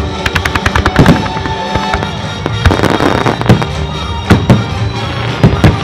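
Fireworks display: a rapid string of sharp crackling pops in the first second, then heavy shell bursts and crackle through the rest, about five big bangs in all. Music from the show's loudspeakers plays underneath.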